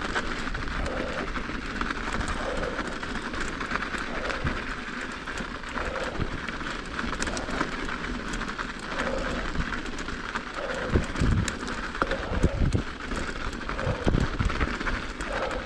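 Mountain bike rolling over packed snow and ice: a steady rumble and hiss of tyres and wind on the camera microphone, with several low knocks from bumps in the second half.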